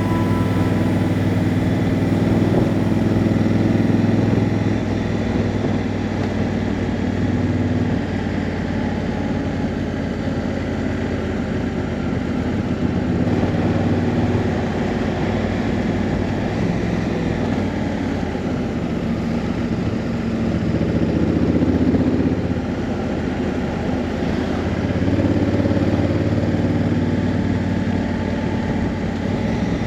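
Honda Africa Twin's parallel-twin engine running steadily at low revs, with a few gentle rises in revs and loudness.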